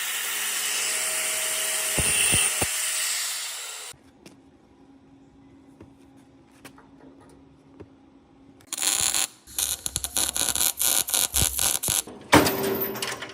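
Workshop tool noise: a loud steady hiss with two sharp clicks that cuts off suddenly about four seconds in, a quiet stretch with a faint hum, then irregular clattering and scraping of metal parts from about nine seconds.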